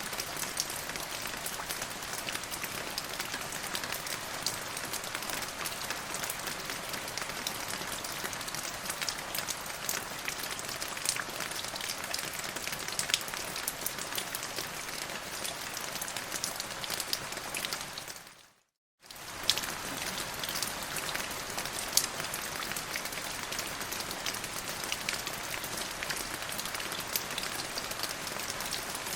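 Steady rain falling, a dense even hiss with many distinct drop hits ticking through it. About two-thirds of the way in, the sound fades out to silence for about half a second, then comes back.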